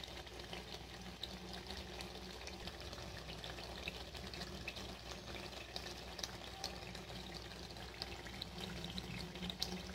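Chicken achari curry sizzling in oil in the pot, the bubbling surface giving off a faint, steady stream of small pops and crackles.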